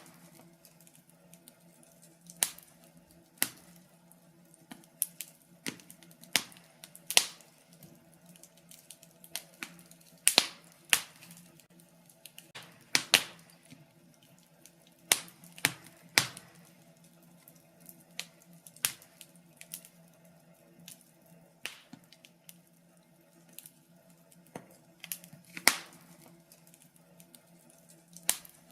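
Wood fire crackling in a fireplace, with sharp, irregular pops about once a second over a faint steady hum.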